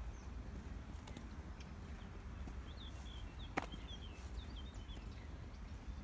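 A small bird twittering, a quick run of short high chirps through the middle, over a steady low rumble of footsteps on a dirt track. One sharp click about midway is the loudest sound.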